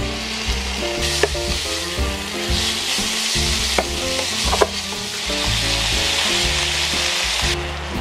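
Strips of meat frying in hot chili oil in a nonstick pan, sizzling loudly while a wooden spatula stirs them, with a few sharp knocks of the spatula against the pan. The sizzle starts about a second in and cuts off abruptly shortly before the end.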